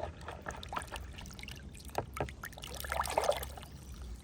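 A plastic toy car being washed by hand with water: splashing and dribbling water, with small knocks and clicks from handling the toy. The water grows louder about three seconds in.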